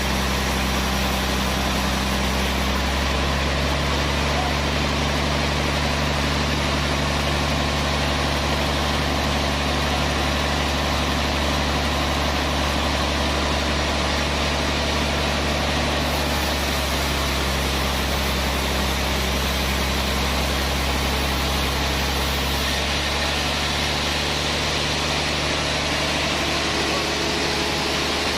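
Sawmill machinery running steadily, a broad constant noise over a low engine hum whose pitch shifts slightly a few times.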